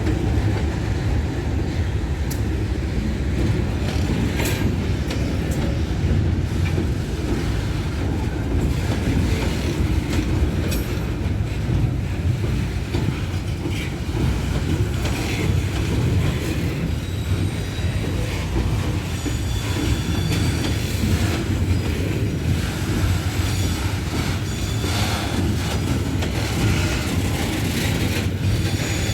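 Loaded freight train rolling past at close range: a steady low rumble of heavy wagons, with scattered sharp clicks and knocks of the wheels over the rail and occasional faint wheel squeal.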